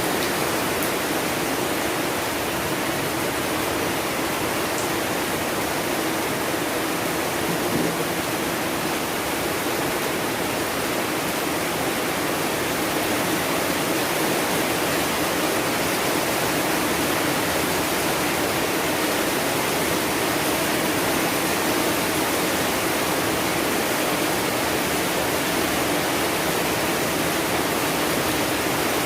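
Heavy rain falling steadily: a loud, even hiss that does not change.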